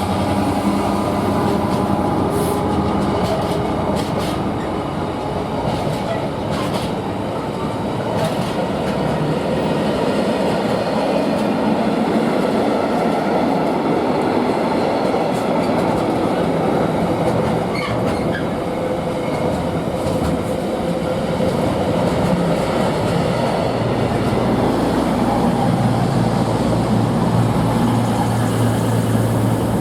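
A diesel train running past on the main line with a steady rumble of wheels on rail and the drone of its engine. A run of sharp clicks from the wheels crossing rail joints comes in the first few seconds, and the engine note shifts near the end.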